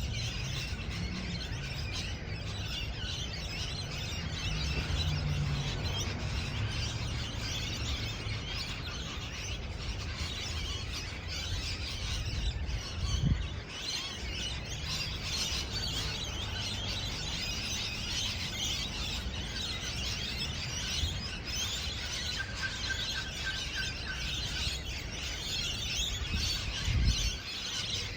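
A group of parrots chattering and chirping together, a busy high-pitched twittering that never lets up, with a couple of low thumps in the middle and near the end.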